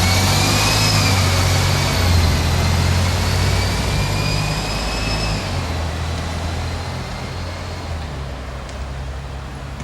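A motor vehicle running, with a steady low rumble and a faint high whine that rises and falls, fading away over the second half.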